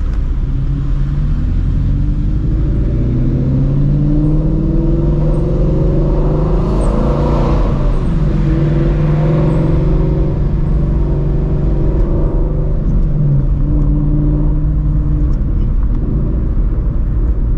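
Straight-piped Shelby GT350's 5.2-litre flat-plane-crank V8, with long-tube headers, running on light throttle. Its exhaust note climbs a little in pitch over the first few seconds, swells louder about seven seconds in, then holds fairly steady.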